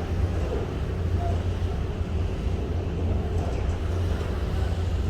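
Steady low rumble with faint voices in the background.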